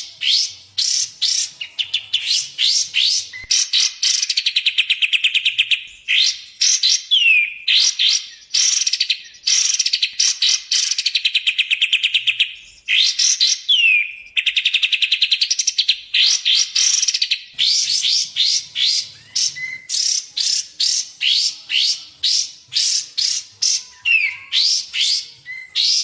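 Recorded song of kapas tembak and cucak jenggot bulbuls played as a bird-training track: a fast, unbroken stream of sharp, down-slurred chirps, broken several times by long, rapid trills.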